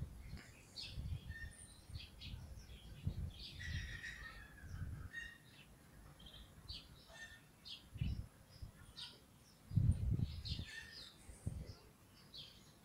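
Small birds chirping in many short calls, with several dull low thumps mixed in, the loudest about ten seconds in.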